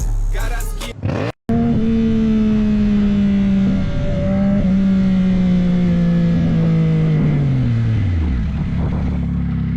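Motorcycle engine running at steady revs, its pitch sagging slowly, then dropping sharply about eight seconds in and settling to a low steady note.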